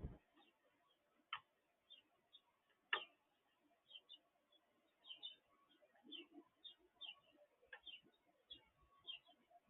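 Small birds chirping faintly: many short, high chirps in quick succession. Now and then there is a sharp tap or knock, four in all, the first and loudest at the very start.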